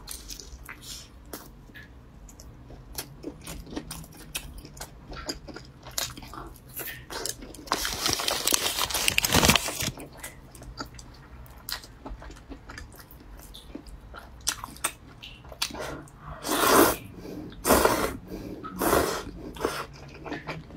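Close-miked chewing of a grilled sausage: wet mouth clicks and smacks. About eight seconds in comes a couple of seconds of rustling, and near the end three loud airy bursts at the mouth as noodles are taken up with chopsticks.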